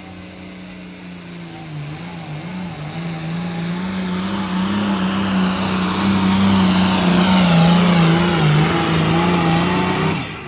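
Diesel engine of a 466 Limited Pro class pulling tractor running hard under load on a hook down the pulling track, its pitch held high and wavering a little. It grows steadily louder as it comes down the track, then drops off sharply near the end as the run ends.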